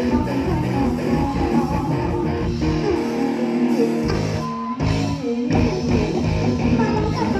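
Live band music led by guitar, with a steady beat; the bass and drums drop out briefly about halfway through, then come back in.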